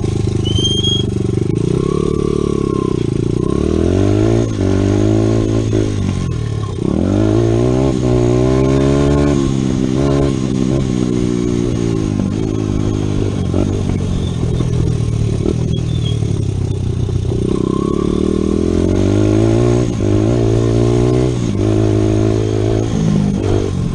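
Honda CRF100 dirt bike engine being ridden hard, its pitch repeatedly climbing as it revs up and dropping back again.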